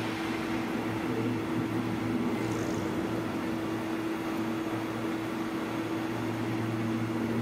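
Red DB Regio double-deck train moving slowly along the platform: a steady hum with a few held low tones under an even rushing noise.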